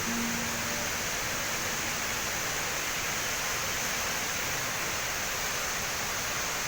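The Rain Vortex, the indoor waterfall at Jewel Changi Airport, with its falling water making a steady, even rush.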